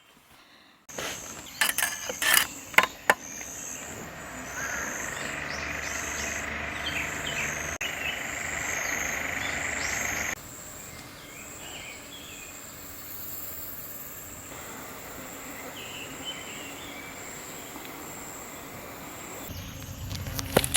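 Outdoor ambience of grass insects trilling steadily in a thin high tone, over a soft hiss of background noise. A few sharp clicks or knocks sound near the start, and the background drops noticeably about halfway through.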